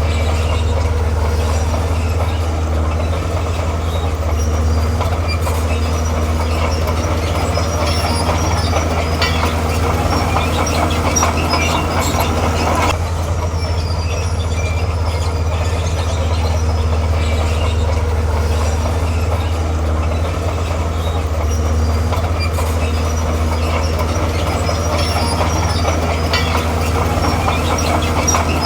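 Tracked earthmoving machine working: a diesel engine running steadily and loud, with steel tracks clanking and squealing.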